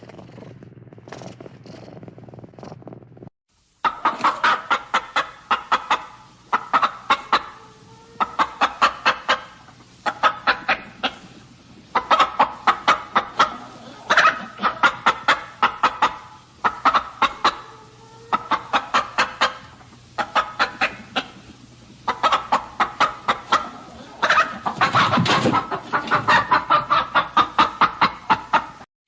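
A cat purring for about the first three seconds, then an abrupt switch to chickens clucking in rapid runs of short calls, one to two seconds at a time with short pauses between.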